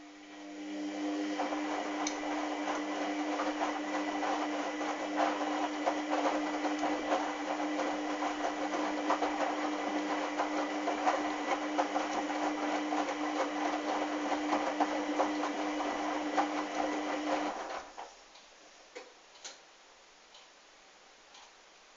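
Hoover washing machine running with a steady hum over a dense rapid crackle of water and clicks, starting about a second in and cutting off abruptly about 17 seconds in, followed by a few faint clicks.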